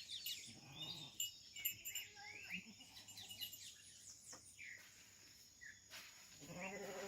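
Faint farmyard ambience: birds chirping in short rising and falling calls, over a steady high insect drone.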